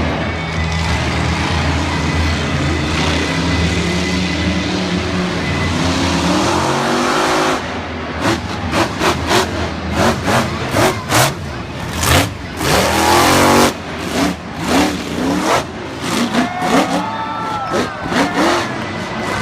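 Monster truck engines running with a steady drone, then revving up. From about eight seconds in, the revving is broken by many sharp, loud bangs.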